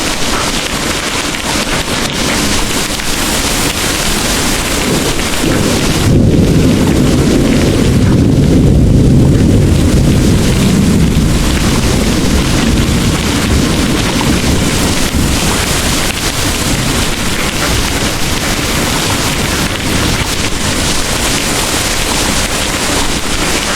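Heavy rain pouring steadily, with a low rumble of rolling thunder that swells about five seconds in and fades away by about twelve seconds.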